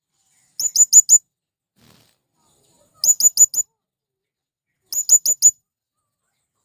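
Male blue-crowned hanging parrot (serindit) calling: three short bursts of four or five shrill, high-pitched notes, about two seconds apart.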